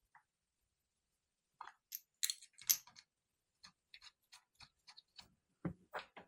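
Light clicks and taps of bolts being put in and turned by hand into the cap of a CVR starter motor's solenoid, a scatter of small ticks with a few louder knocks near the end.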